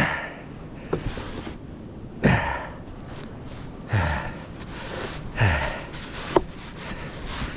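Snow shovel working heavy, sticky snow, with a stroke every second or two as the snow is scooped and thrown, and hard breathing from the shoveller.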